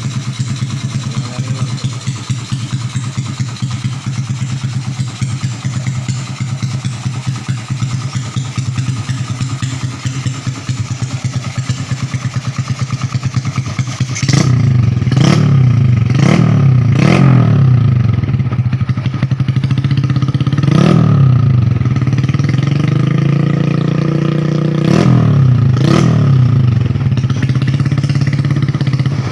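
Motorcycle with an aftermarket exhaust idling steadily. About halfway through it gets louder, and the throttle is blipped six times, each rev rising sharply and dropping back to idle.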